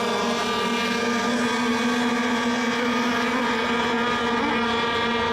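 Radio-controlled racing boats running flat out on the course, their engines making a steady, high-pitched buzzing whine.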